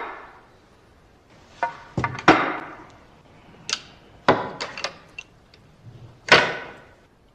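Snooker balls being played: a string of sharp clicks and knocks from cue strikes and balls hitting one another, about ten in all at uneven spacing, each ringing briefly in a large room.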